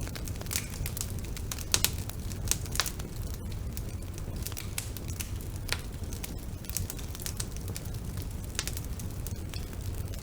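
Bonfire burning: a steady low rumble with irregular crackles and pops, a few louder pops about two and three seconds in.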